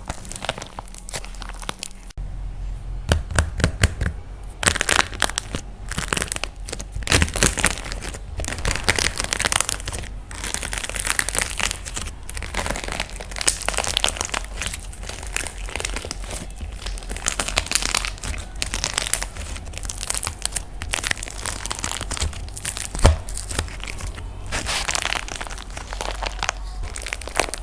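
Dried plaster clay crunching and cracking as it is squeezed and broken apart by hand, a dense run of small crackles with one sharper crack about three quarters of the way through.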